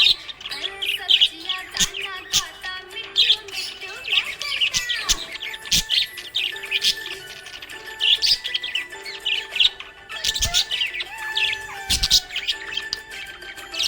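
Budgerigars chirping and chattering in quick, busy runs of high notes, with a few sharp clicks among them.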